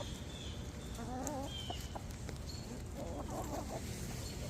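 Backyard hens clucking softly while eating a treat: a wavering call about a second in and a run of short clucks around three seconds in.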